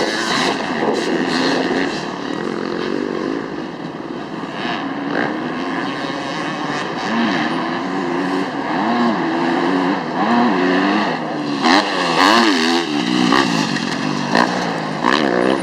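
Several dirt bike engines revving up and down as the bikes race around the motocross track, their pitches rising and falling over one another.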